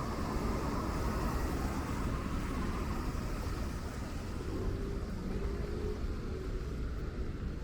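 Steady city street noise in the rain: traffic passing on wet roads, with a low rumble throughout.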